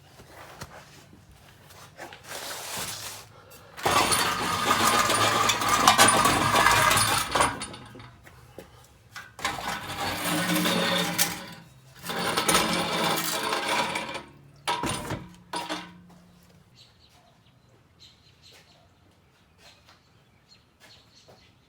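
Metal exhaust pipes and muffler scraping and clanking in several bursts as a 2010 Camaro's factory exhaust is pulled free of its rubber hangers.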